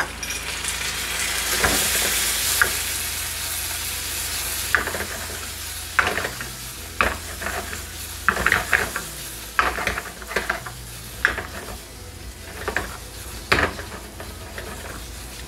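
Vegetables and chana dal sizzling in hot oil in a frying pan as watery ginger-garlic paste hits them, the sizzle swelling over the first two seconds and then slowly easing. From about five seconds in, a wooden spatula stirs and tosses the mix, knocking and scraping against the pan a dozen or so times.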